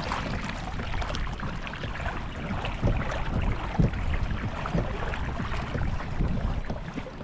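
Wind buffeting the microphone and water against a kayak's hull, with small irregular knocks and a few low thumps from gear being handled on board.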